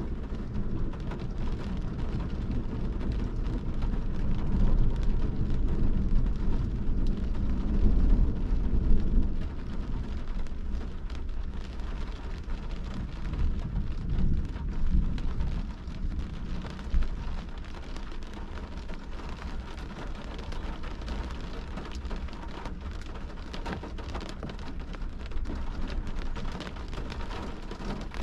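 Steady rain falling on a car's windshield and body, heard from inside the car as a wash of many fine drop ticks. A low rumble swells under it for the first ten seconds or so, loudest about eight seconds in, then settles.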